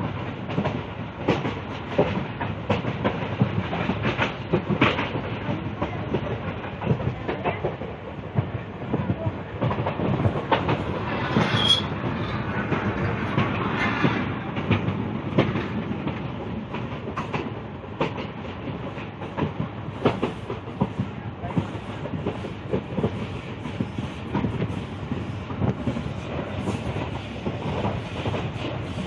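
Passenger train running along the track, heard from a carriage window: a steady rumble of wheels on rails with irregular clicks and clatter from rail joints, and a brief high note about twelve seconds in.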